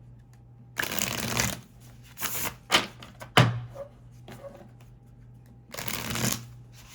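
Deck of oracle cards being shuffled by hand in several short bursts, with a sharp snap about three and a half seconds in.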